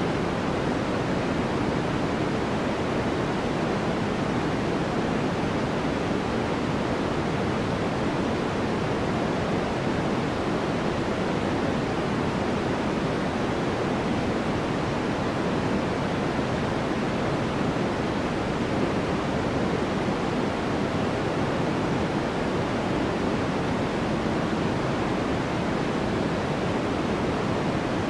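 Steady synthetic noise for sleep masking, an even hiss weighted toward the low and middle range, with no changes or events.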